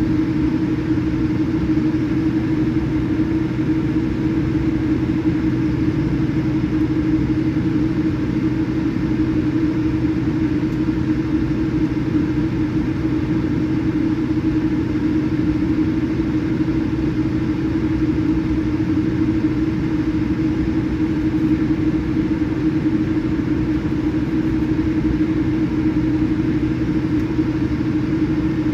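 Steady drone of a Boeing 787-8 heard from inside the passenger cabin: engine and airflow noise with a constant low hum, unchanging throughout.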